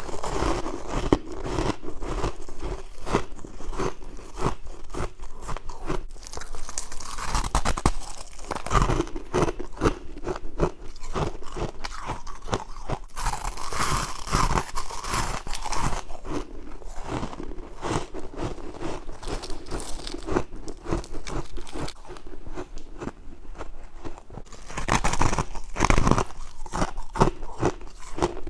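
A person biting and chewing crisp humidifier frost close to the microphone: a dense, irregular run of crunches, with louder bursts of biting about a third of the way in, near the middle and near the end.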